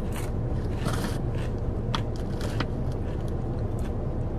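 A person chewing a light, crunchy snack: several crisp crunches in the first three seconds or so, over a steady low hum.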